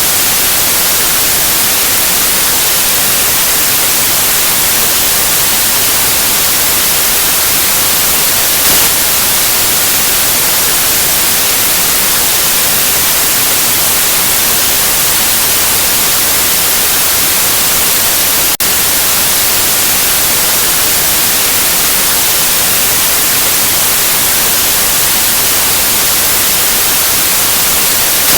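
Steady white noise: an even, unchanging hiss, with one momentary dropout about two-thirds of the way through.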